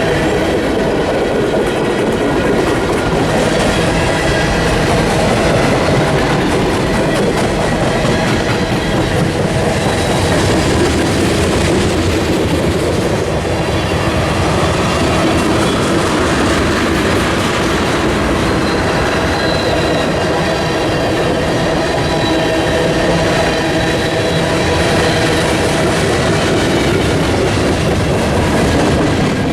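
Railroad cars rolling steadily on the track, wheels clicking over rail joints, with a faint high wheel squeal about two-thirds of the way through.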